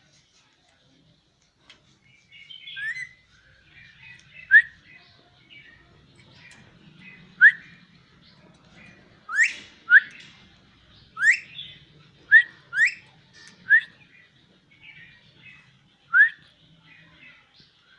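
Caged parrot giving a series of short, sharp rising whistles, about ten of them, with softer chattering calls in between.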